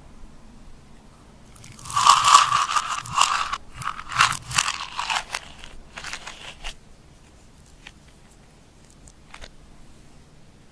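Crunching and crackling as makeup and slime are worked together by hand. There are two dense bursts about two and four seconds in, a shorter one near the middle, then a few faint clicks.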